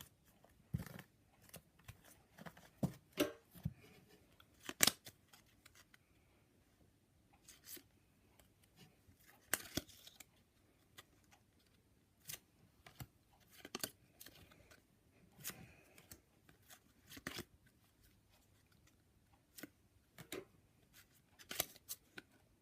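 Match Attax football trading cards and their packets being handled: irregular sharp clicks, flicks and rustles of card and wrapper, a couple of seconds apart or closer.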